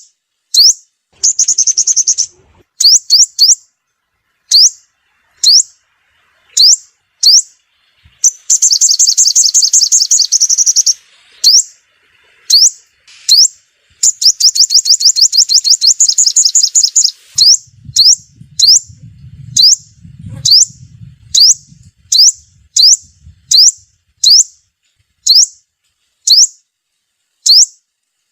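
Sunbird calling: sharp, high single chip notes repeated about once a second, broken three times by rapid, buzzy trills lasting one to three seconds.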